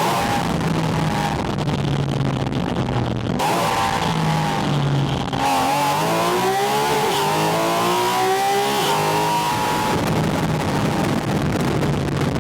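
Porsche 718 Spyder RS's naturally aspirated flat-six heard through its air intake, with a steady drone from wind on the microphone. The engine pulls at steady revs, then climbs in pitch from about halfway through before dropping back near the end.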